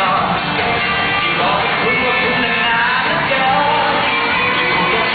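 Live pop band playing with singing, heard from the audience in a hall, with dull sound lacking any treble.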